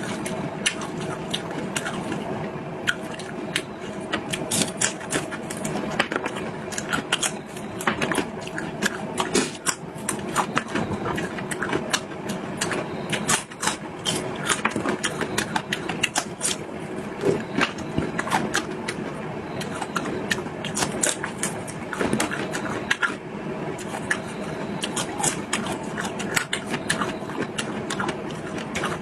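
Close-miked eating: a person chewing with dense, irregular crackling and smacking clicks, several a second.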